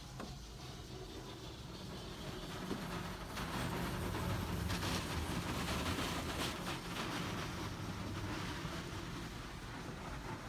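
Car wash machinery running, with a low rumble and a hiss of water spray. The noise grows louder about three and a half seconds in.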